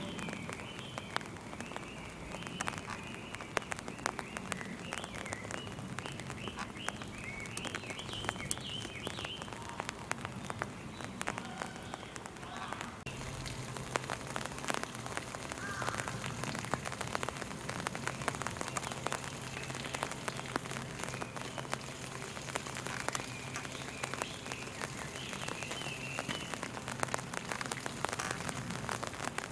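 Steady rain, a dense patter of drops hitting the ground and nearby surfaces. The texture of the patter changes abruptly about halfway through.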